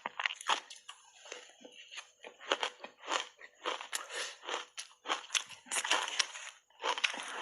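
Close-up chewing and crunching of shaved ice in the mouth: a run of irregular crunches, several a second, thickening near the end.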